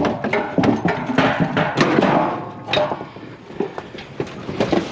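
Scrap being shoved into a gap on a loaded trailer: a run of knocks, thuds and clatter, busiest in the first three seconds, then a few scattered knocks.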